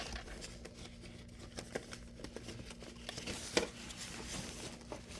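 Faint scattered clicks and light rustling of small objects being handled, with one slightly louder tick about three and a half seconds in, over a faint steady hum.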